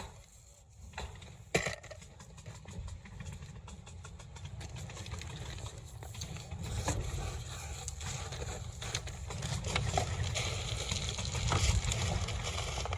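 Excavator engine running with a low, steady rumble that grows louder over the stretch, with a few sharp knocks, the clearest about a second and a half in.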